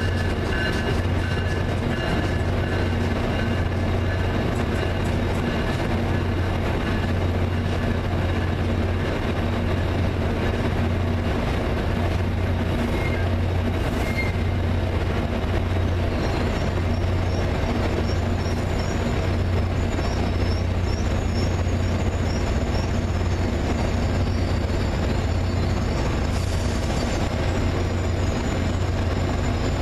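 A train running steadily with a strong, constant low hum. Thin, high-pitched wheel squeal joins about halfway through.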